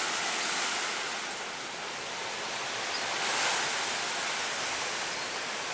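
Storm wind and rain making a steady rushing hiss, swelling slightly about three and a half seconds in.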